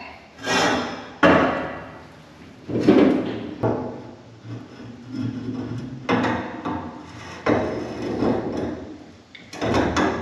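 A series of about six separate knocks and clanks, each starting sharply and fading out, typical of steel tubing and tools being handled and set down in a fabrication shop.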